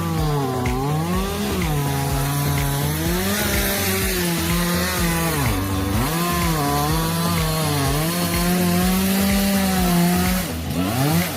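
Two-stroke chainsaw cutting firewood, its engine revving and dipping in pitch each time the chain bites into the wood, then held at a steady high speed near the end.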